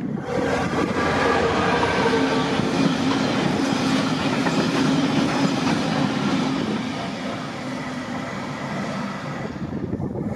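Class 66 diesel-electric freight locomotive, with its two-stroke EMD diesel engine running, passes close by hauling engineering wagons. The engine's steady hum fades after about seven seconds, leaving the noise of the wagons rolling past on the rails.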